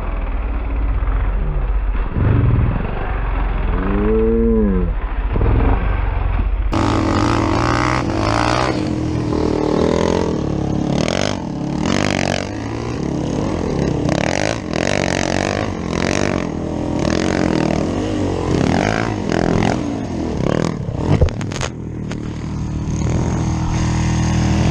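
Dirt bike engines running and revving. The sound changes abruptly about seven seconds in, and after that many short knocks and thumps come through over the engine.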